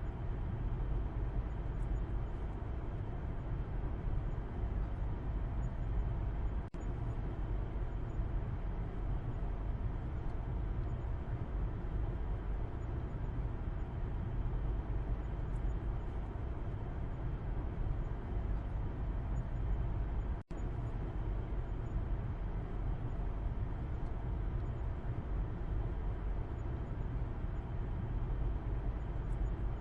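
Steady car interior road noise heard from the back seat: a continuous low rumble of tyres and engine under a softer hiss, with two brief dips in level, near 7 s and 20 s.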